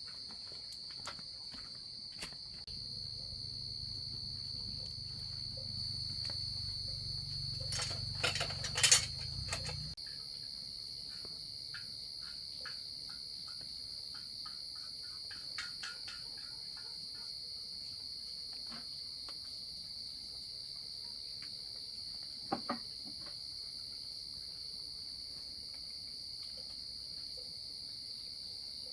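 Crickets chirring steadily in one high, unbroken note. A low rumble comes in a few seconds in and stops abruptly about ten seconds in, with a quick cluster of sharp knocks, the loudest sound, just before it ends, and a few single clicks later on.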